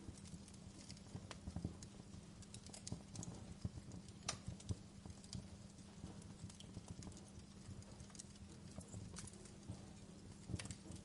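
Wood fire crackling in a fireplace: irregular sharp pops and snaps over a low, steady background.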